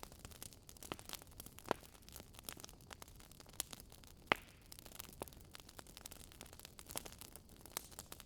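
Wood fire crackling: irregular sharp pops and snaps over a faint hiss, with one louder pop about four seconds in.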